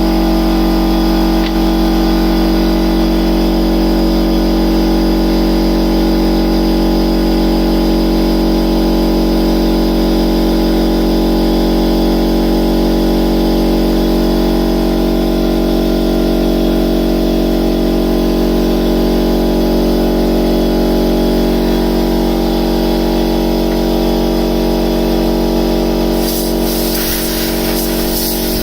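A workshop machine's electric motor running steadily at constant speed with a humming drone. Near the end a hissing, rasping noise joins it.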